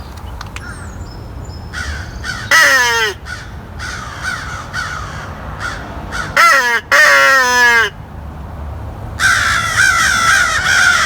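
A Haydel's triple-tone mouth-blown crow call sounding loud, close caws that fall in pitch: one about two and a half seconds in and a run of several between six and eight seconds in, with fainter caws from real crows between them. From about nine seconds in, many crows caw together without a break.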